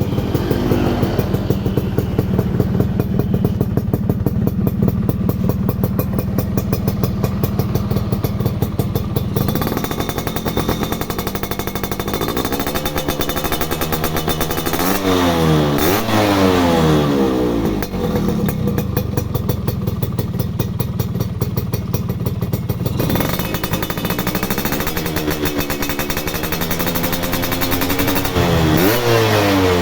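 Yamaha F1ZR single-cylinder two-stroke engine breathing through a KDX exhaust. It idles with a rapid, even beat for about ten seconds, then is revved up and down in several blips, the last one near the end.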